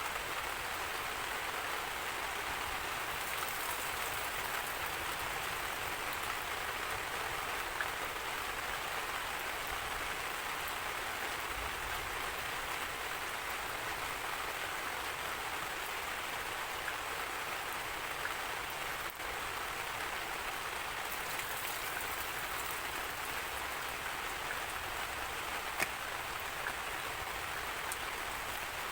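Steady rainfall, an even hiss of rain falling on surfaces, with a couple of single louder drops standing out.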